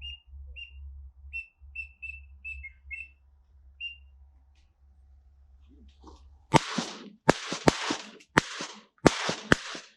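A volley of about six shotgun shots in quick succession, starting a little past halfway, each a sharp crack with a short rush of noise after it. Before that, a series of short, high whistled peeps a few times a second, in the manner of teal whistles.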